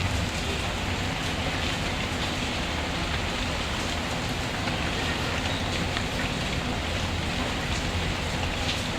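Steady rain falling, an even hiss with drops pattering, mixed with the small scattered pops of a crackling wood fire.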